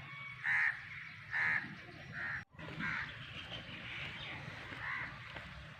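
A bird calling in short repeated calls, about five in a few seconds. The sound cuts out for an instant near the middle.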